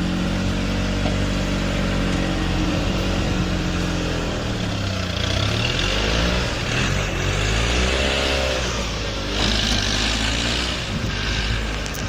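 A vehicle engine running under load and revving, its pitch rising and falling several times.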